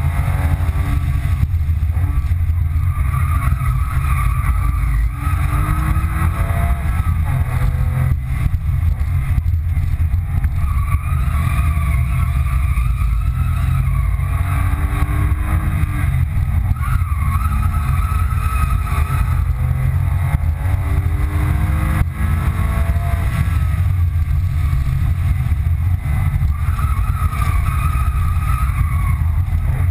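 Porsche 997 Carrera 2's 3.6-litre flat-six engine heard from inside the cabin under hard track driving, its revs climbing again and again, then dropping. A heavy low rumble of road and wind noise runs under it.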